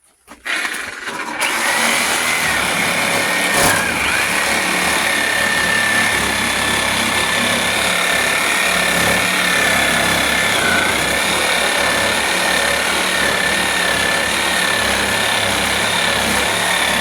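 Corded reciprocating saw running steadily at full speed while cutting, its motor whining over the noise of the blade. The pitch sags briefly a few times as the cut loads the saw, and there is one sharp knock a few seconds in.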